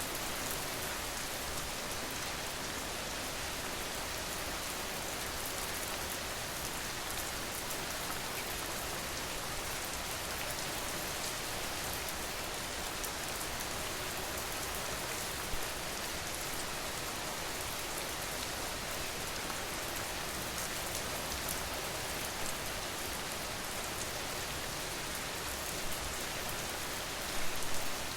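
Steady rain falling, a constant hiss of drops, with a few brief louder hits about halfway through and a short cluster of them near the end.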